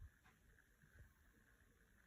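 Near silence: faint room tone with a soft knock at the start and a fainter one about a second in.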